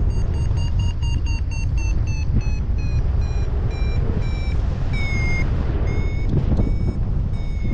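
Paragliding variometer beeping its climb tone: fast short beeps at first, then slower and slightly lower in pitch with one longer beep in the middle, as the climb weakens. Under it, a steady rush of wind on the microphone.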